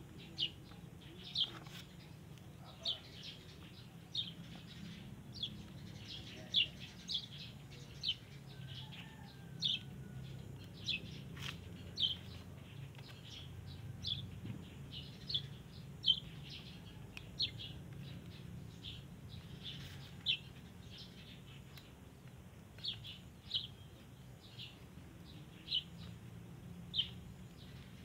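A small bird chirping repeatedly: short, high, slightly falling chirps, about one or two a second, over a low steady hum.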